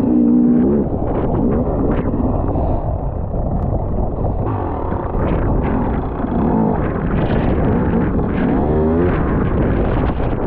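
Enduro motorcycle engine running, its pitch rising and falling several times as the throttle is worked, over a heavy low rumble.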